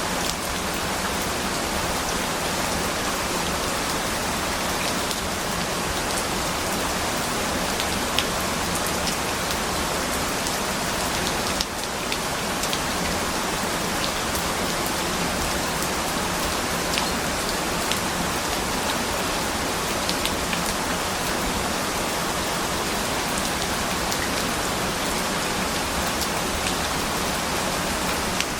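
Steady rain falling on a surface, an even hiss with scattered sharper drop ticks, and a brief dip in level about twelve seconds in.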